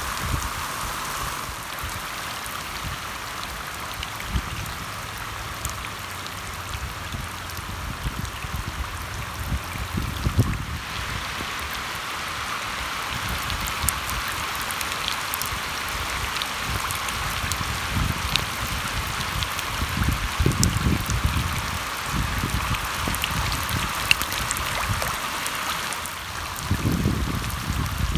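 Heavy rain falling onto standing water: a steady hiss of drops splashing on the surface, with scattered sharper drip ticks. Brief low rumbles come and go every few seconds, the strongest near the end.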